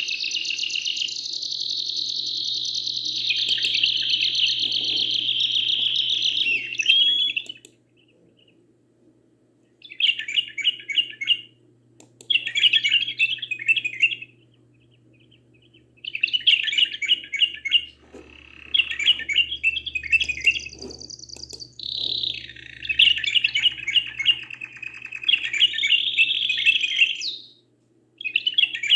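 Canary and bulbul singing: a long rolling trill for the first seven seconds, then a string of short, quick trilled phrases with brief pauses between them, and another long trill near the end.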